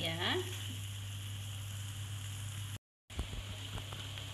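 Mustard greens, tofu and egg sizzling and bubbling in a little liquid in a wok, with a few light spatula clicks after a brief break near the end.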